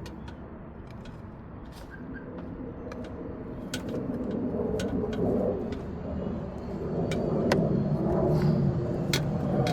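Scattered light clinks and taps of hand tools on metal as a screwdriver works at the water pump, with a low rumble that swells from about four seconds in.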